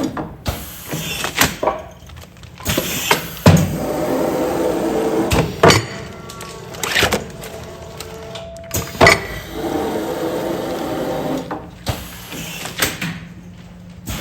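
Commercial food-container sealing machine at work: a run of sharp clunks and knocks, with stretches of steady machine noise between them.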